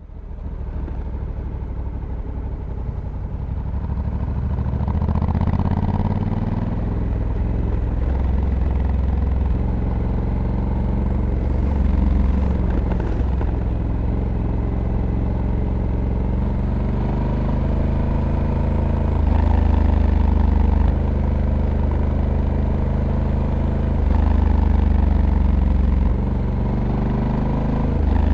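Onboard sound of a Honda Africa Twin's 1084 cc parallel-twin engine under way. The engine note rises and falls and steps down several times as the dual-clutch transmission changes gear by itself.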